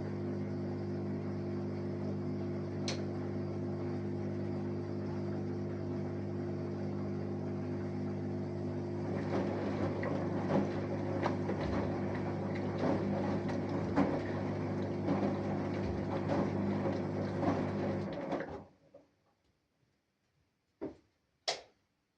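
Samsung Eco Bubble washing machine running a wash, its inverter motor turning the drum with a steady hum, joined about halfway through by irregular knocks from the tumbling load. The running stops abruptly about three-quarters of the way in, followed by two short clicks.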